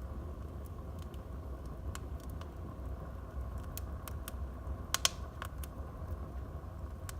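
Wood fire in a fireplace crackling: scattered sharp pops and snaps over a low steady rumble, the loudest a quick double pop about five seconds in.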